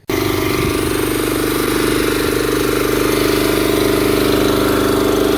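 Small go-kart engine idling steadily while it warms up after being started.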